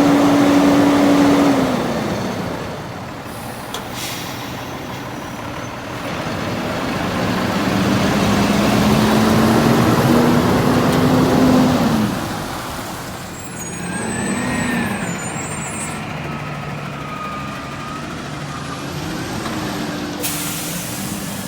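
Heavy trucks going by: a steady engine note that drops in pitch and fades about two seconds in, then another truck that grows louder with its note slowly rising before it falls away about twelve seconds in. Short hisses of air come near the start and again near the end.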